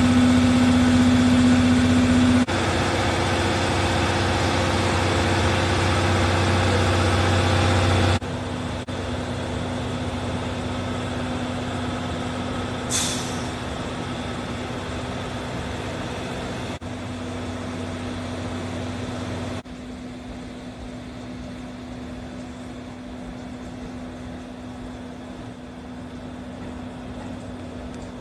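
Steam locomotive C11 123 standing or running slowly with a steady mechanical hum and hiss, with a short hiss about halfway through. The level drops abruptly a few times.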